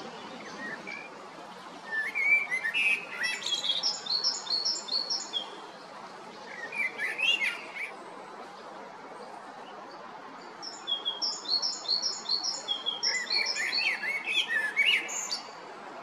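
Male great tit singing: two bouts of quickly repeated high notes in an even pattern, about a second in and again in the second half, with lower chirps between them, over a steady background hiss.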